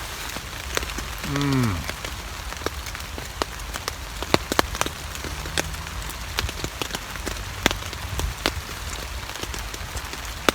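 Heavy rain pattering steadily on a camping tarp overhead, with many sharp drop impacts and drips. About a second and a half in, a man gives a brief falling hum.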